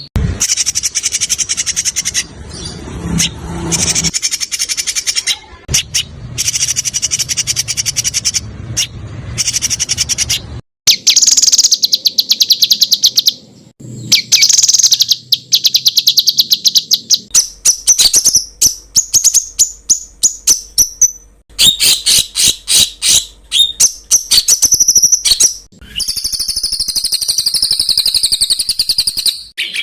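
Songbird song for training cage birds: loud, high-pitched trills and fast strings of sharp repeated notes ('tembakan'), in several spliced stretches that switch abruptly from one song to another.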